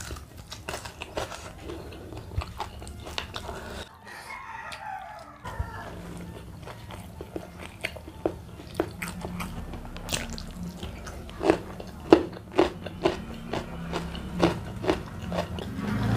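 Close-miked chewing and crunching of a mouthful of fried salted baby ribbonfish, whose small bones are soft, with many sharp wet mouth clicks and smacks. About four seconds in there is a short wavering pitched sound.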